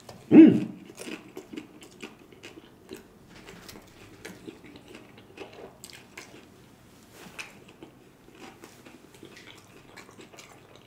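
Close-miked eating of a stuffed hard-shell taco: a loud bite about half a second in, then chewing with many small crunches of the crisp shell.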